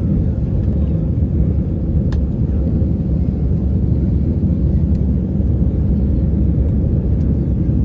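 Airbus A320 cabin noise: a steady, deep rumble of the jet engines and airflow.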